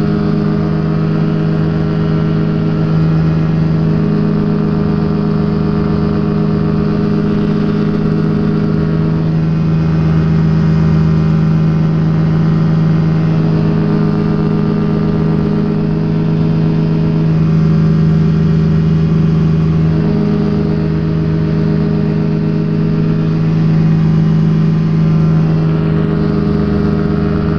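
Rotax engine of a Quad City Challenger ultralight running steadily in flight, its level swelling and easing a little now and then.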